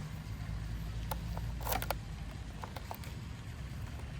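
Bicycle being mounted and ridden off: a few light clicks and rattles over a steady low rumble.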